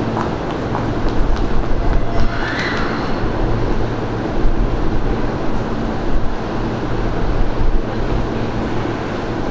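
Hanshin 5500 series electric train running, a steady hum over rail noise with a cluster of sharp clacks a second or two in and a brief squeal near the three-second mark.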